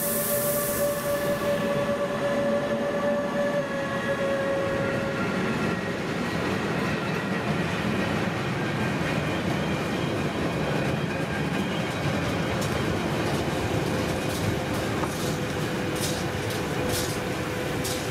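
A Class 185 electric locomotive passing close, then a long intermodal freight train of curtain-sided swap-body wagons rolling by on a curve, with a steady rumble of wheels on rail. A high hiss and steady tones fade out within the first few seconds. Sharp wheel clicks come in the second half.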